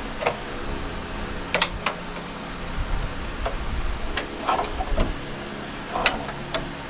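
Irregular light knocks and clicks as car-body sheet metal is handled and worked, about eight in all, over a steady hum.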